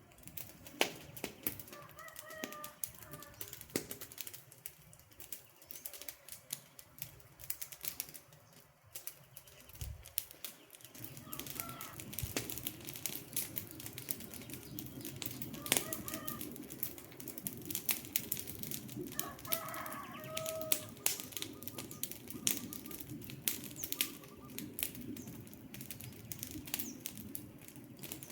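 Wood fire crackling with frequent sharp snaps and pops, a low rush of flame coming up about a third of the way in. Short bird calls sound now and then in the background.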